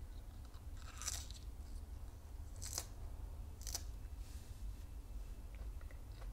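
Raw pink and white magnolia petals being bitten and chewed: three crisp crunches, about a second in and then twice more a second apart, with a fainter one after.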